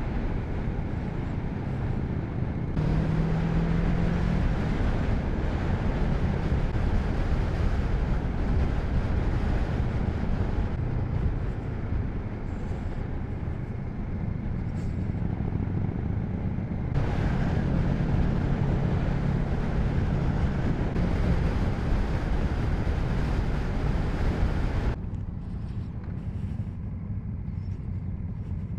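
Motorcycle riding along the road: engine running with heavy wind and road noise. It grows louder about three seconds in and eases off near the end.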